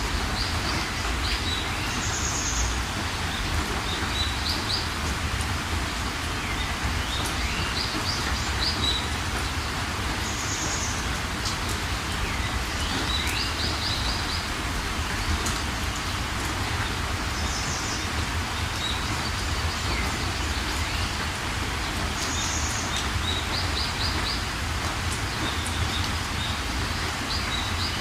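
Steady rain with birds chirping over it: short quick trills and upward-sweeping calls that recur every few seconds.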